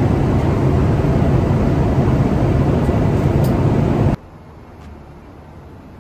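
Steady roar of a Boeing 777-200's cabin noise in flight, engine and airflow noise with most of its weight low down. It cuts off abruptly about four seconds in, leaving a much quieter steady hum.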